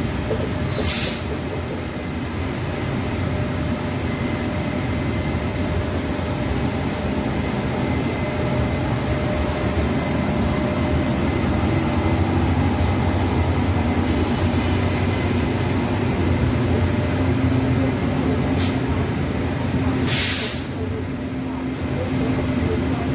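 Taiwan Railways E200-series electric locomotive hauling Chu-Kuang coaches past the platform: steady running noise of the locomotive and the wheels on the rails, with a steady hum in the second half. Two short hisses, about a second in and near the end.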